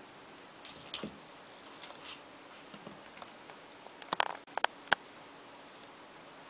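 Cats moving about: scattered light taps and scratchy scrapes, then a quick run of sharper clicks and taps about four seconds in.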